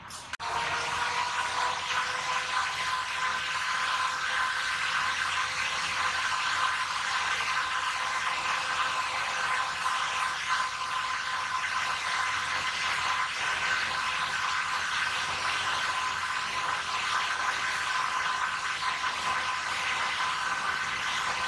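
Train running: a steady rushing noise with a steady high-pitched whine over it.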